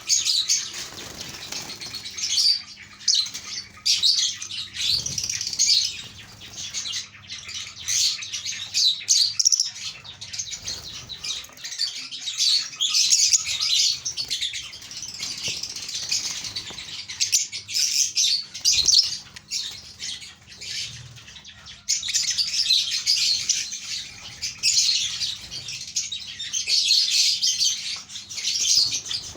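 Many lovebirds chattering together in a dense, continuous stream of high, shrill chirps that swell and ease in irregular bursts.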